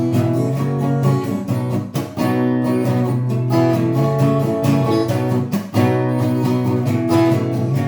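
Acoustic guitar strumming chords in an instrumental break of a song.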